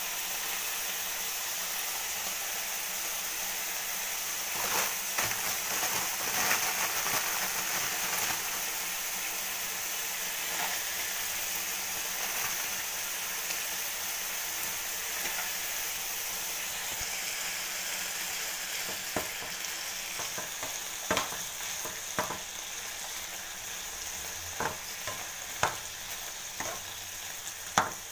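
Cubed chicken and chopped onion sizzling in hot oil in a frying pan: a steady hiss. A metal slotted spoon stirs and taps against the pan, the taps sharper and more frequent in the second half.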